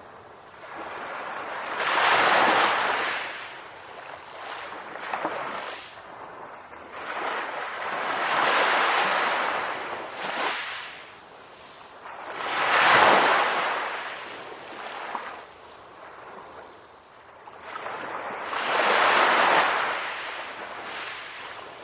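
Ocean waves breaking and washing up a beach, the surf swelling and fading four times, each surge lasting a few seconds.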